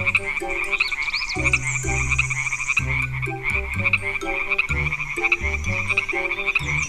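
Frogs croaking: a continuous chorus of fast, rattling pulsed calls.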